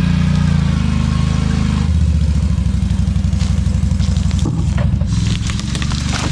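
Small vehicle engine running steadily, its note changing about two seconds in, with a few knocks and clanks over it in the second half.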